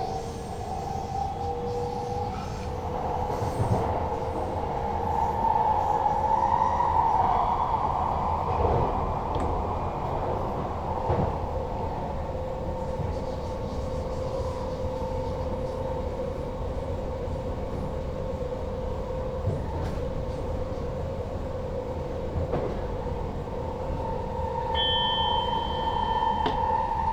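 NS Sprinter Lighttrain electric train running, heard from the driver's cab: a steady rumble of wheels on track under a steady whine that rises slightly at the start and swells twice. A brief high beep sounds near the end.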